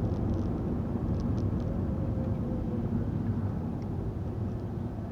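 Car driving along a country road, heard from inside the cabin: a steady low rumble of engine and tyres.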